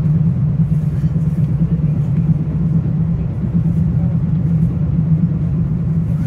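Metro-North Hudson Line commuter train running at speed, heard from inside: a steady low rumble of the car and its wheels on the rails, with a few faint ticks.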